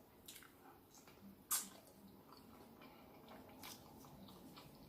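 Faint close-up eating sounds of a person working through snow crab legs: soft chewing with three short sharp clicks, the loudest about one and a half seconds in.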